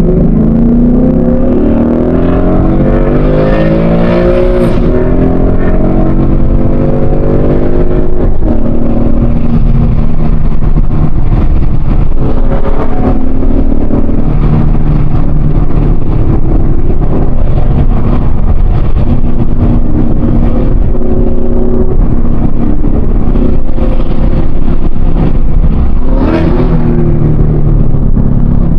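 2024 Ford Mustang GT's 5.0-litre V8 accelerating, its pitch rising over the first few seconds, then shifting up and running steadily. Near the end the revs briefly rise and fall.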